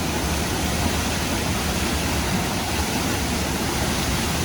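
Steady rushing noise of a waterfall, with no breaks or separate sounds.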